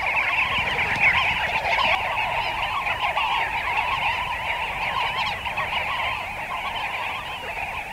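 Flock of Namaqua sandgrouse calling together at a waterhole, a dense chorus of many overlapping short calls without a break.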